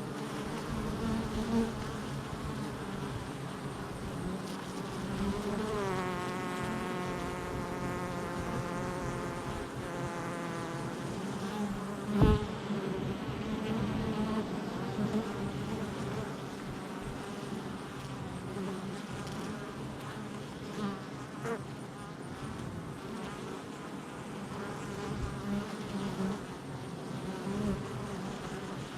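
Honey bees buzzing at a hive entrance: a steady drone of many wings, with one closer buzz standing out for several seconds near the start. A single sharp tap comes about twelve seconds in.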